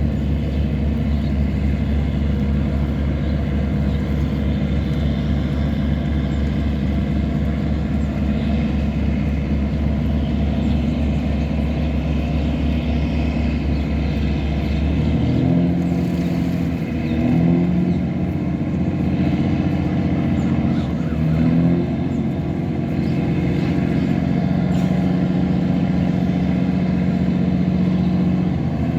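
Tugboat engine running steadily with a deep, even drone. About halfway through, its pitch shifts and then steps up and down a few times as the engine speed changes.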